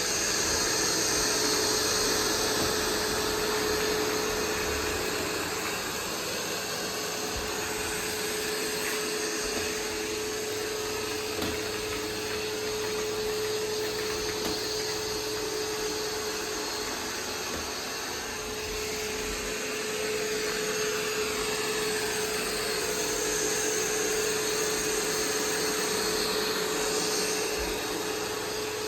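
iRobot Roomba 505 robot vacuum running while cleaning up paper scraps. It is a steady noisy hum with a constant whine running through it.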